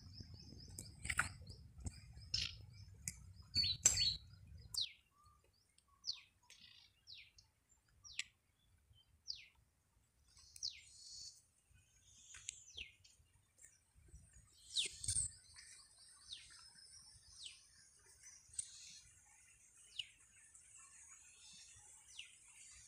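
Birds chirping: short, sharp calls that slide downward in pitch, repeated every second or so, with a faint steady high hiss joining about halfway through. A low rumble sits under the first few seconds.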